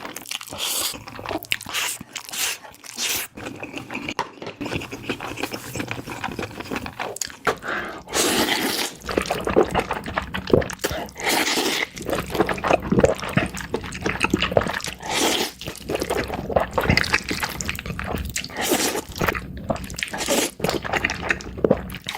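Close-miked wet eating sounds: a person slurping and chewing noodles, with many quick, irregular wet smacks, busier and louder from about eight seconds in.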